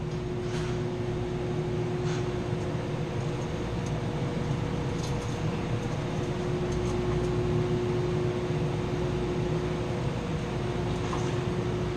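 Steady hum of running machinery in a chiller plant room, with a steady mid-pitched tone over it and a few faint light clicks.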